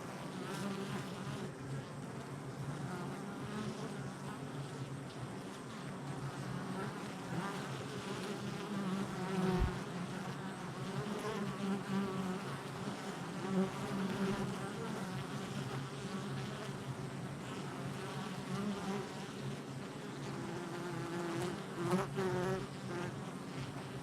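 Honey bees buzzing at a hive entrance: a steady hum of many worker bees, with individual bees swelling louder as they fly close past, about ten seconds in, around fourteen seconds and near the end.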